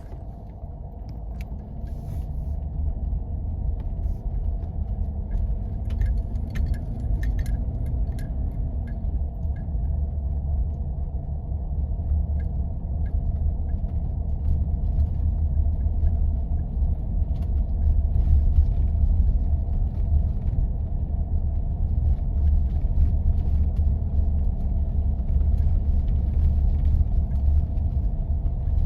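Steady low rumble of a 4x4 driving on snow-covered roads, with the engine note rising and falling for several seconds near the start. Scattered light clicks come and go over the rumble.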